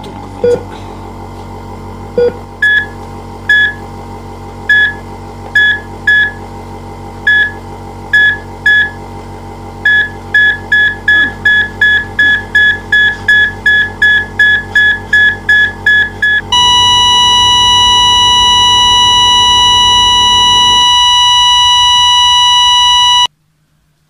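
Heart-monitor beeps, sparse and irregular at first, then speeding up to about three a second. About sixteen seconds in they give way to one long continuous flatline tone, which cuts off sharply near the end. A low steady hum sits underneath until shortly before the tone stops.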